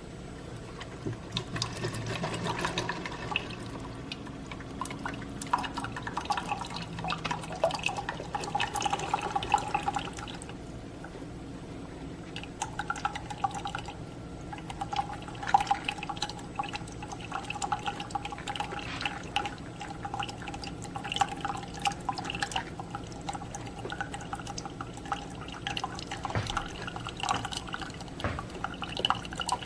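Keurig K-Supreme Plus single-serve coffee maker brewing: liquid pouring and dripping into a cup, with many irregular small clicks and crackles over a steady faint tone.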